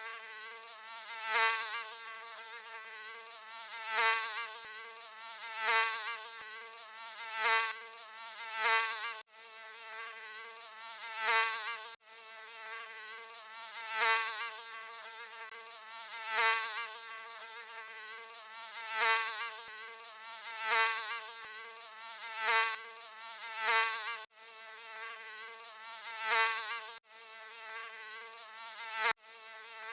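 Mosquito buzzing: a continuous high, wavering whine that swells and fades every couple of seconds, like a mosquito flying close past the ear and away again, with brief sudden gaps every few seconds.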